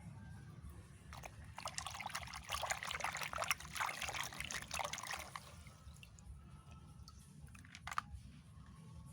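Water pouring and splashing over toys being washed, running for about four seconds from about a second and a half in, full of small crackling drips, with one sharp knock near the end.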